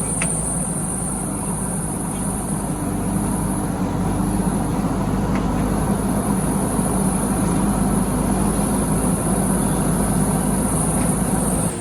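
Heavy diesel engine running steadily, with no breaker blows, alongside a continuous high-pitched whine.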